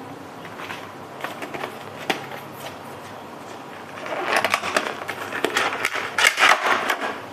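Plastic product packaging and a bottle being handled: a few light clicks, then about three seconds of crinkling and rustling.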